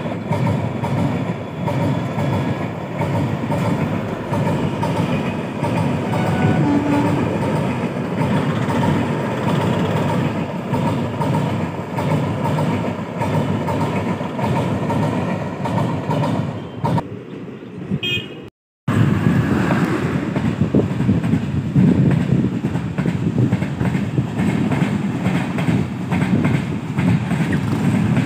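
Indian Railways passenger train rolling past at speed, its wheels rumbling and clattering over the rails. The sound breaks off for a moment about two-thirds through and comes back louder as another train passes.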